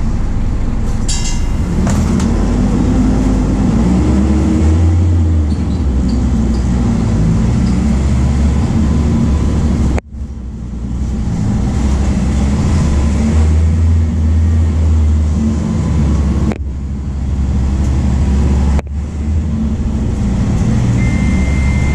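MAN D0834 four-cylinder turbodiesel of a VW 17.230 OD bus running under way, its note rising and falling with throttle and gear changes. A short high beep sounds near the end.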